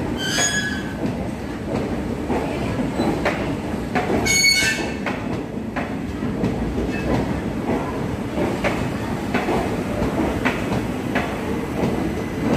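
Passenger coaches of an Indian Railways express rolling past at speed as the train arrives: a steady rumble with repeated clicks of the wheels over rail joints. There are two brief high-pitched metallic squeals, one just after the start and one about four seconds in.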